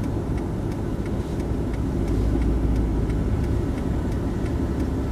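Steady low engine and road rumble heard from inside a car's cabin as the car drives slowly through floodwater on the road, with faint ticks about twice a second.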